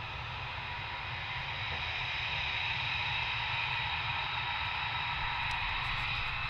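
Jet aircraft engine noise, a steady rushing hiss with a faint whine that grows a little louder about two seconds in, with wind buffeting the microphone.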